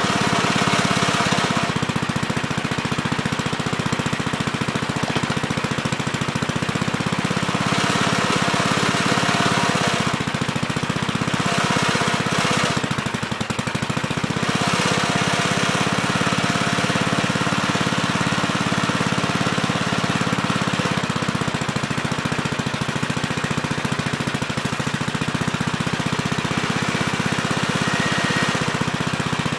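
Gravely Terramite compact backhoe's engine running steadily while digging, its sound swelling and easing a few times partway through as the hydraulics take load.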